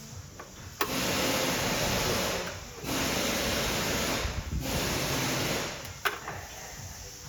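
A small motor running in two long bursts, each a little under two and three seconds, with a click at the start and another near the end.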